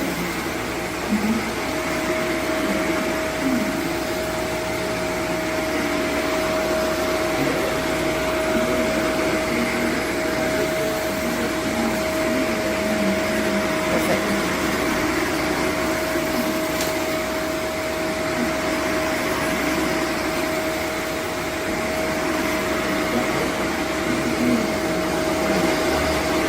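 Shark Vertex Powered Lift-Away upright vacuum (AZ2002) running steadily, a constant motor whine over the rush of suction.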